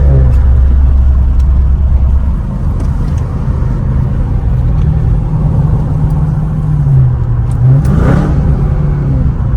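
Supercharged 6.2-litre V8 of a 2023 Dodge Charger Hellcat on its stock exhaust, idling, with one quick rev about eight seconds in.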